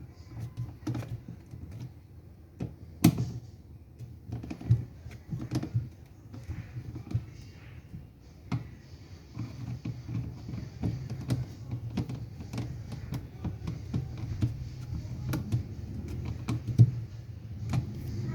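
Irregular clicks and knocks of parts and tools being handled during a washing machine repair, over a low steady hum. The sharpest knock comes about three seconds in.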